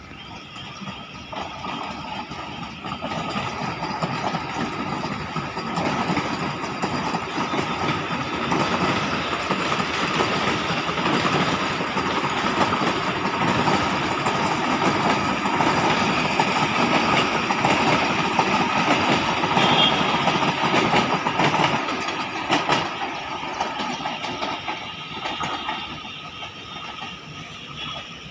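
A train passing on the rails: the rumble and wheel noise grows over the first few seconds, stays loud through the middle, and fades away toward the end.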